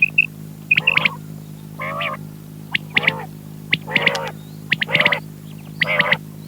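Quail calling over and over, a call about once a second, each a short burst of sharp notes, over a steady electrical hum.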